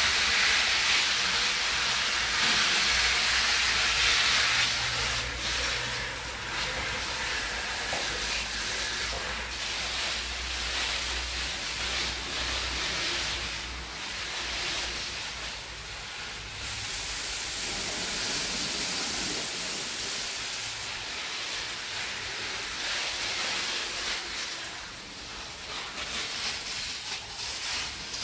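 A steady hissing noise, loudest in the first few seconds and then a little quieter and uneven.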